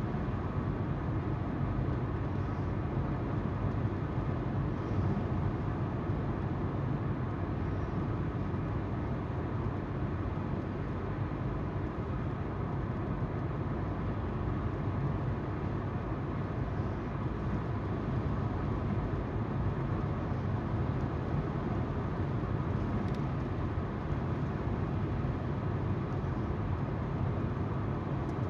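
Car on the move heard through a dashcam's microphone: a steady, low rumble of tyres on the road with the hum of the engine underneath.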